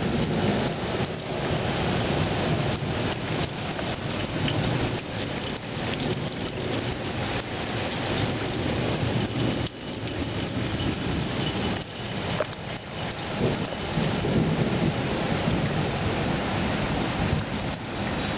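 Heavy rain pouring steadily during a thunderstorm. Low rumbles of thunder swell and fade beneath it, strongest near the start and again about two-thirds of the way through.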